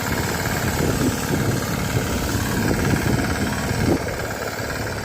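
Small 5 hp engine of a mini tractor power cultivator running steadily, dropping slightly in level about four seconds in.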